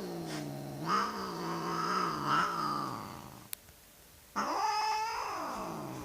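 Agitated domestic cat growling low for about three seconds, then, after a brief pause, letting out a second long yowl that rises and falls. A single sharp click comes in the pause.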